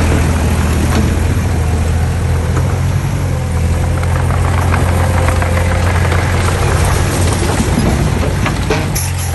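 Heavy construction-machine diesel engine running steadily at low revs, with a few scattered light knocks and clicks near the end.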